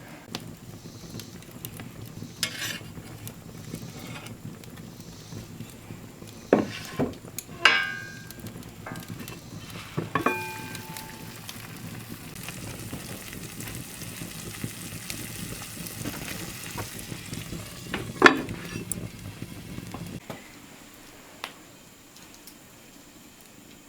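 Food sizzling as it cooks, with a few sharp clinks and knocks of metal utensils on cookware, two of which ring briefly. The sizzling stops suddenly near the end.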